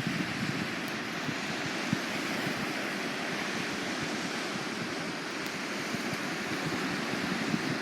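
Surf washing on the shore, a steady rush of waves.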